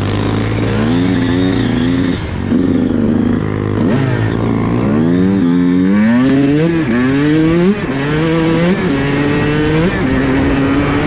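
Dirt bike engine with a loud White Brothers exhaust, accelerating hard and shifting up over and over: the pitch climbs, drops back at each gear change and climbs again, about eight times. The exhaust is loud as heck.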